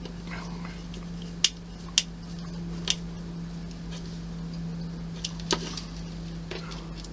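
Small model-kit parts being handled on a work surface: five or six sharp clicks and taps at irregular moments, over a steady low hum.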